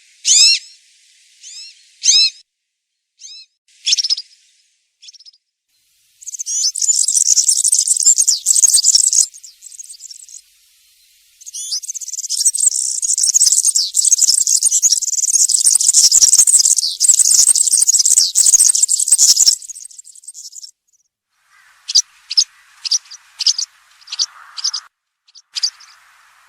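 European serin singing its wild-type song: a few short chirps, then two long, rapid, high-pitched jingling songs, the second lasting about eight seconds, then a string of short separate notes.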